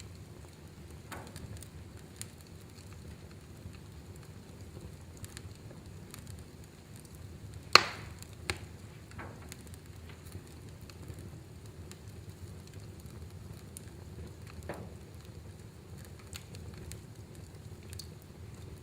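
Wood fire crackling in a fireplace: a steady low rumble of the flames with scattered sharp pops, the loudest about eight seconds in.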